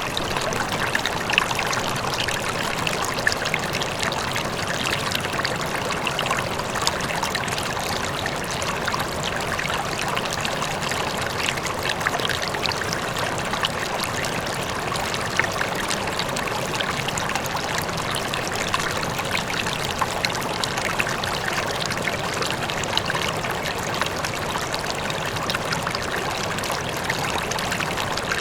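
River water flowing steadily, a continuous rushing with many small splashes and bubbling, with a faint waterfall further off blended into it.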